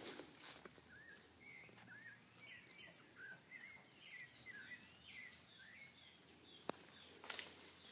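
A bird calling in a quick series of short chirps, about three a second, some rising and some falling in pitch, from about a second in until about six seconds. A single sharp click comes near the end, and brief rustles are heard near the start and end.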